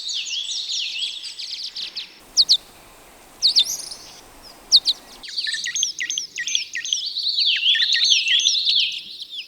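Swallows twittering in quick, chattering chirps and short gliding notes, several birds calling over one another. The sound changes abruptly about two and five seconds in, where separate recordings are joined, with a sparser stretch of single chirps between.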